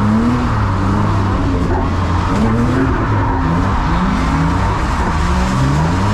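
Drift car's engine revving up and down again and again through a slide, its pitch rising and falling every second or so, over steady tyre and road noise.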